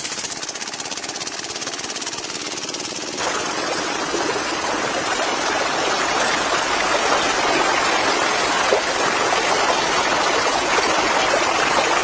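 Small motor of a miniature water pump running with a fast, even chatter. About three seconds in, a rush of flowing, splashing water joins it and slowly grows louder.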